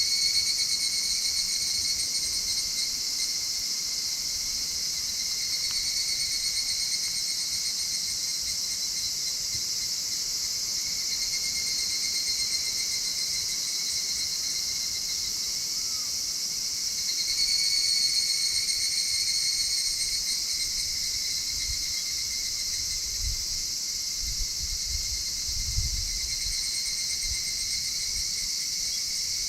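A dense, steady chorus of insects singing, high-pitched. Over it, one louder pulsing trill swells in every five or six seconds for a second or two. A few low rumbles come near the end.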